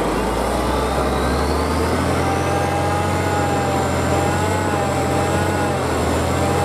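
Trial truck's diesel engine running loud and steady under load, with a high whine that rises over the first two or three seconds and then holds.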